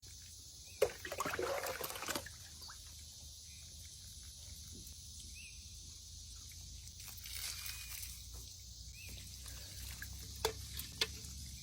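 Rainwater poured over hair from a pitcher, splashing and dripping: a splash about a second in, a softer pour later, and a few sharp clicks near the end, over a steady outdoor hiss.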